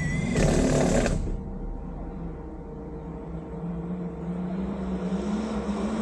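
Off-road vehicle's engine running at idle with a steady low drone, its pitch rising slightly near the end. A short loud rushing burst sounds in the first second.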